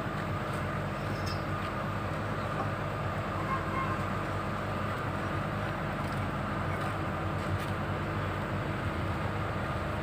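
Komatsu PC200-7 excavator's six-cylinder diesel engine running steadily.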